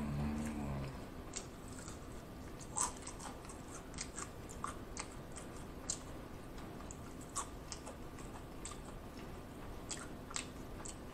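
Close-miked chewing of fried onion rings and french fries, with soft crunches and wet mouth clicks scattered through at about one a second. A brief low hum in the first second.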